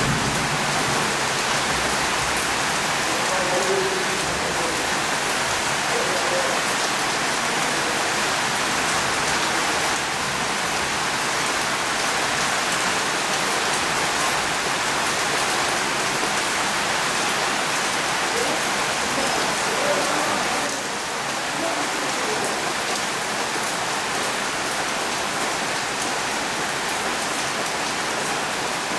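Steady rain falling, a dense even hiss of drops on surfaces, dipping slightly in level about two-thirds of the way through.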